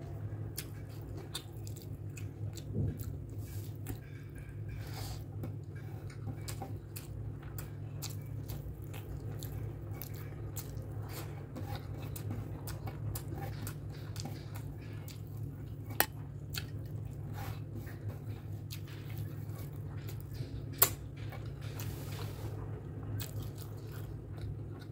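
Close-miked chewing and wet mouth sounds of someone eating rice and curry by hand, with small clicks of fingers mixing rice on a steel plate. A steady low hum runs underneath, and two sharp clicks stand out in the second half.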